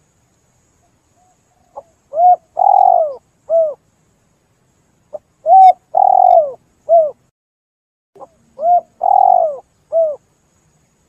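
Spotted dove (tekukur) cooing: three repeated phrases a few seconds apart, each a short soft note followed by arched coos, the middle coo longer and rougher than the rest.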